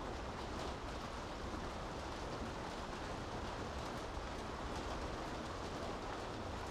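Steady rain falling on city streets, with a low rumble underneath.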